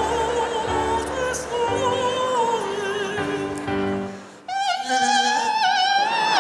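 Operatic singing with strong vibrato over backing music. The music drops out briefly about four seconds in, then the voice comes back on a higher held note.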